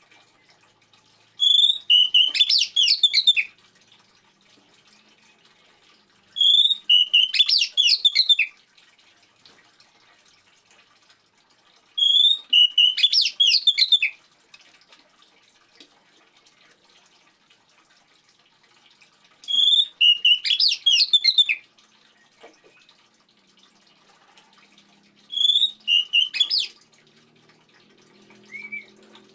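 Oriental magpie-robin (kacer) song: the same short phrase of high, quick notes, about two seconds long, repeats five times about six seconds apart, with a brief note near the end. Faint trickling water runs underneath.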